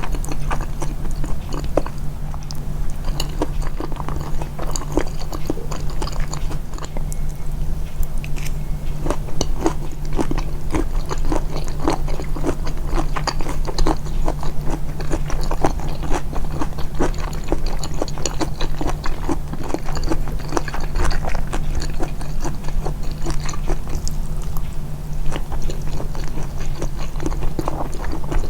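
A person chewing food with many short, wet clicks and smacks throughout, the eating sounds amplified, over a steady low hum.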